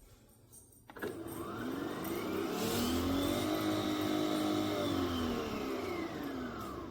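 Nespresso Vertuo Pop+ spinning the coffee capsule: a motor whine starts about a second in, rises in pitch, holds, then falls away near the end.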